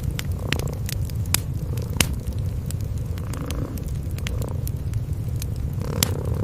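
Cats purring in a continuous low rumble, over the irregular crackle and pops of a wood fire in a fireplace, with a few louder pops.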